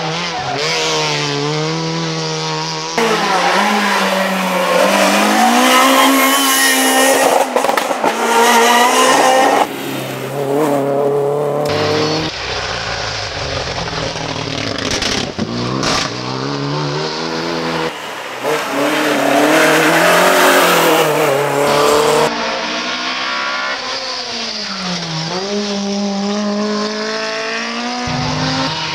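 Rally cars driven hard on a stage, engines revving high and dropping back repeatedly through gear changes, with some tyre squeal. Several passes follow one another, with abrupt changes between them.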